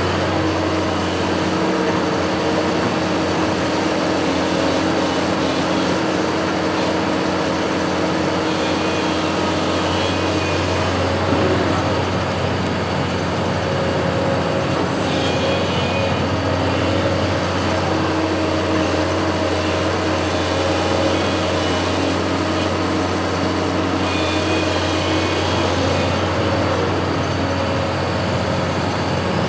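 A construction machine's engine running at a steady speed, a constant low hum with no change in pitch.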